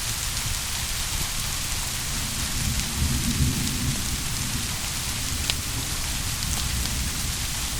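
Steady rain, with a low roll of distant thunder rising and fading about three to four and a half seconds in.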